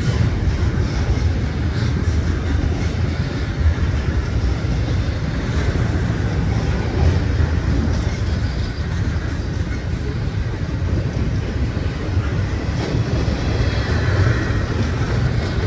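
Double-stack intermodal freight train rolling past: a steady, loud low rumble of steel wheels on the rails.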